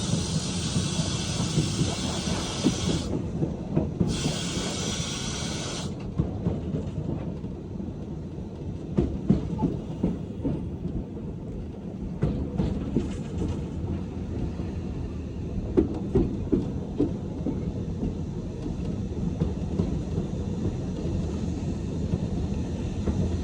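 Steam-hauled train running on the track: a steady low rumble from the wheels, with scattered clicks and knocks. For the first six seconds a loud hiss sits over it; the hiss drops out briefly about three seconds in, then cuts off suddenly.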